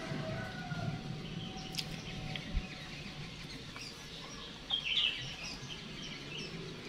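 Birds chirping in the background, with a short burst of chirps about five seconds in and a couple of light clicks earlier.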